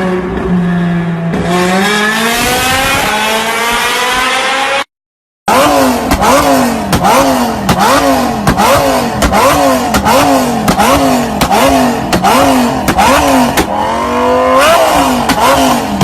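Car engine through a loud exhaust, idling steadily and then revved in one long rise. After a brief silence, an engine is blipped in quick repeated revs, about one and a half a second, ending in a longer rev.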